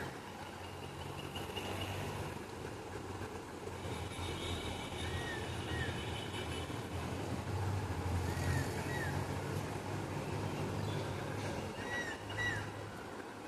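A bird calling in short paired chirps, the pairs repeating every three to four seconds, over a steady low rumble of background noise.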